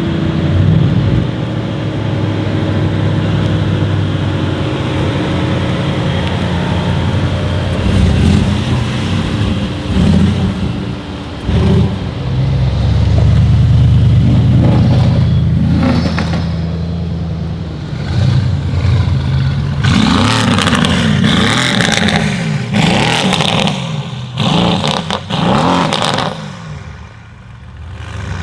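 Tuned Mercedes-AMG E63 S 4Matic+ twin-turbo V8 engine running. It idles steadily at first, then revs several times, runs loud for a long stretch in the middle, and gives a run of quick revs before dropping back near the end.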